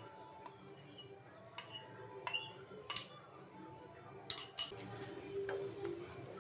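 Metal cutlery clinking against dishes: a handful of sharp clinks at uneven intervals, two close together about four and a half seconds in.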